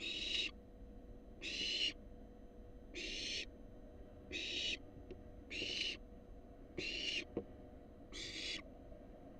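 Barn owl owlet giving rasping, hissing begging calls, seven in a row, each about half a second long and about one and a quarter seconds apart.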